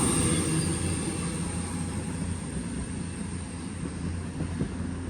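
Class 221 Super Voyager diesel-electric unit's engines running with a steady low hum and a high whine, fading as the train moves off.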